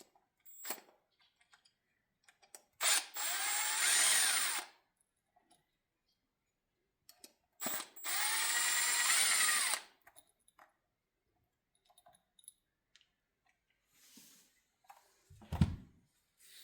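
Impact driver run twice for about two seconds each, motor pitch gliding up and down, backing out the bolts of a block on a transmission valve body. A dull thump near the end.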